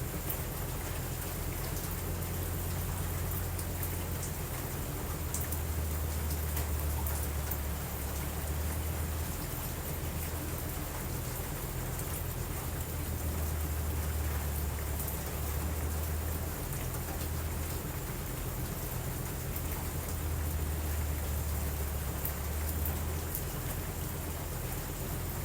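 Steady rain falling, with a deep low rumble underneath that swells and eases every several seconds.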